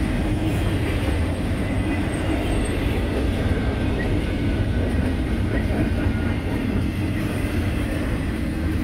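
Norfolk Southern double-stack container train rolling past at close range: a steady rumble of steel wheels on the rails from the passing well cars.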